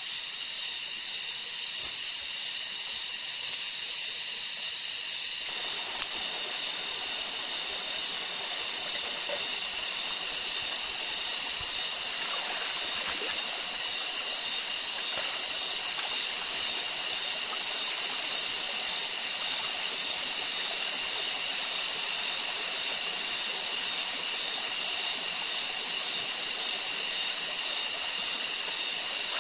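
Steady high hiss throughout, joined about five and a half seconds in by a lower wash like flowing water, with one sharp click about six seconds in.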